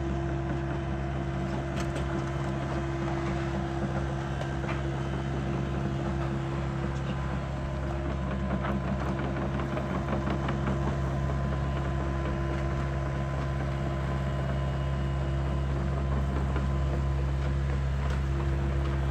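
An engine running steadily at low speed with an even hum, and a few faint knocks over it.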